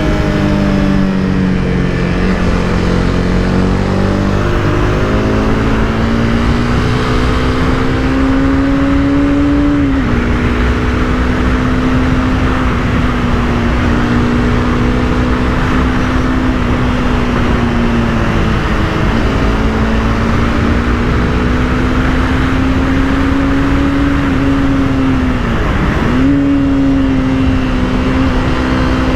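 Honda CBR300R's single-cylinder engine under way, pulling through the gears: its pitch climbs steadily and drops sharply at gear changes about ten, nineteen and twenty-six seconds in, over steady wind rush.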